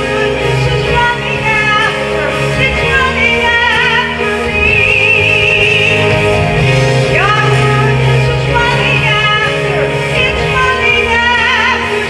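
A woman singing over instrumental accompaniment, with a wide vibrato on her held notes.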